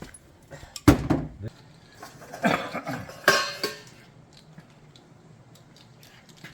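Metal tools and parts clinking and clattering during hand work on a wiper motor. There is a loud knock about a second in, then a run of rattling clinks, and only faint ticks after about four seconds.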